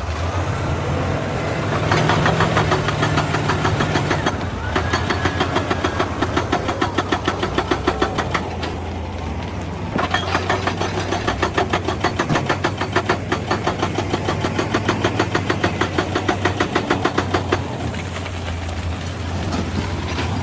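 Excavator's diesel engine running steadily while a hydraulic rock breaker hammers rapidly in three long spells, stopping briefly between them.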